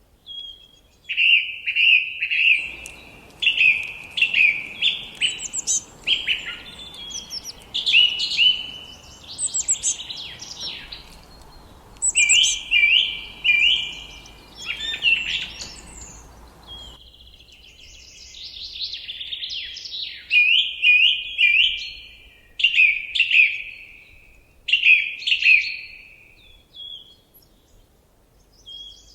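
Songbirds singing in woodland: a continuous run of short, high chirping and trilling phrases with brief gaps. A faint background hiss comes in a few seconds in and cuts off suddenly a little past the middle.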